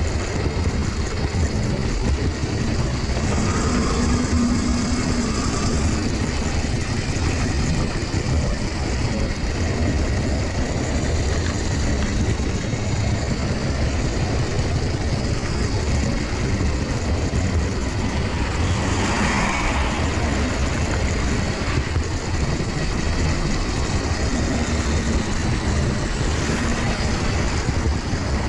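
OO gauge model train running along the track: a steady rumble of the wheels on the rails and the locomotive's electric motor.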